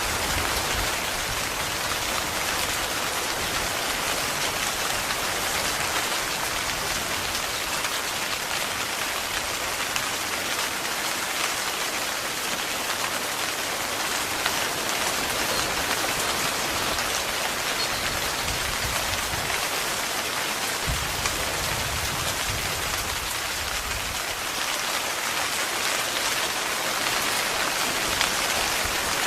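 Steady heavy rain falling on a tent. A brief low rumble comes about two-thirds of the way through.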